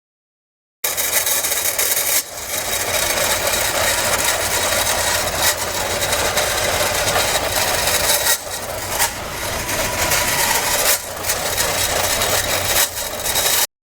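2014 Chevy Cruze engine running with a loud, harsh hissing rasp, the car's turbo having failed. The sound starts abruptly about a second in and cuts off just before the end.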